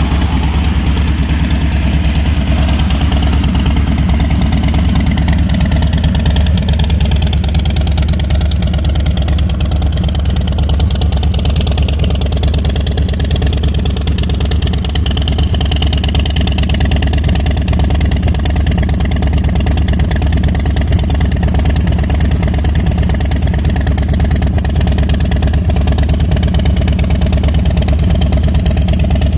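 Harley-Davidson Low Rider S's Milwaukee-Eight 117 V-twin idling steadily through an aftermarket Pitbull Cycle exhaust, a loud, deep, even idle.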